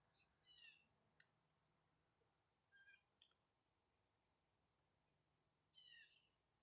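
Faint calls of red-headed woodpeckers: clusters of short falling notes about half a second in and again near the end, with a few single notes between.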